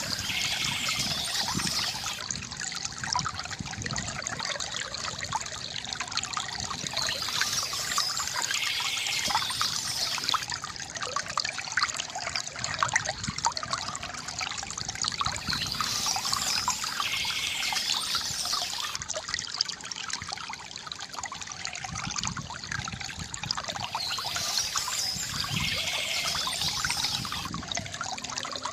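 Small stream trickling and splashing steadily, with a brighter, hissier swell coming back about every eight seconds.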